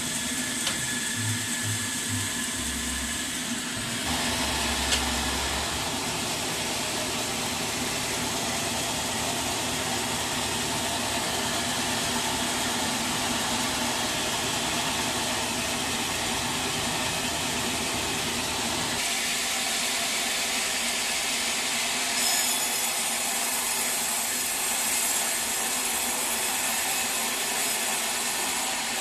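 Sawmill saw running steadily, likely cutting a teak log; its sound shifts about four seconds in and again about two-thirds of the way through.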